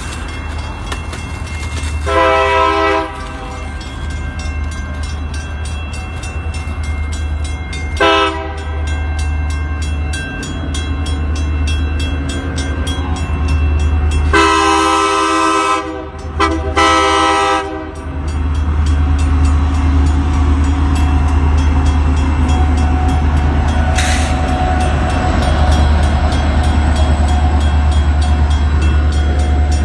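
Locomotive air horn sounding four blasts, a chord of several notes: one about two seconds in, a short one near eight seconds, then two long ones close together in the middle. Under the horn is a steady low rumble from the train, which grows louder after the horn stops.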